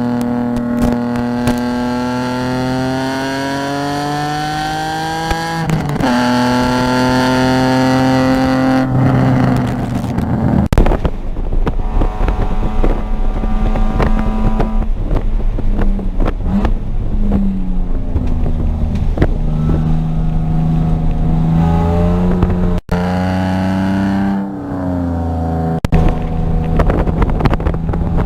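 Car engine heard from on board, pulling up through the revs with a sudden drop in pitch about six seconds in, like an upshift. After about nine seconds it runs at lower, varying revs under a steady noise and a clatter of small knocks, rising in pitch again twice.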